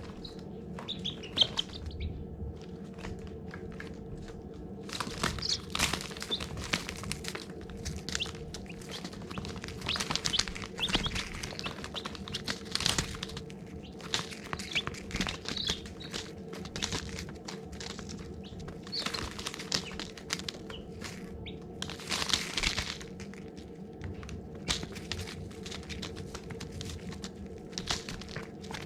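Baby chicks peeping, many short high chirps coming in busy clusters with quieter gaps between, over a steady low hum.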